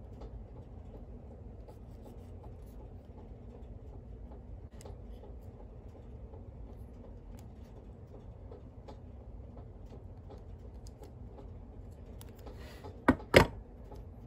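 Quiet rubbing and handling of small parts with scattered light ticks, then two sharp knocks close together near the end.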